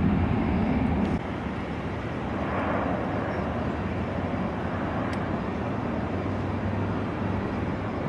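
Jet airliner engines rumbling steadily at an airport. The level drops abruptly about a second in, then the rumble holds steady.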